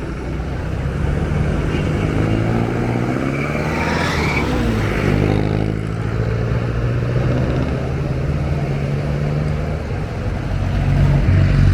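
Motor traffic running steadily, with one vehicle passing close about four to five seconds in, its engine pitch bending as it goes by.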